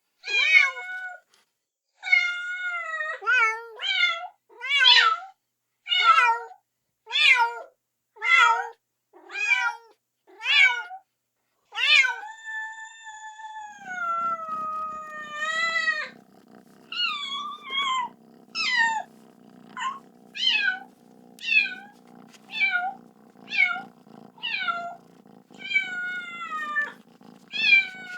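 Kitten meowing repeatedly and insistently, calling for its mother: short, high-pitched meows about one a second, with one long drawn-out meow near the middle. A low steady hum joins about halfway through.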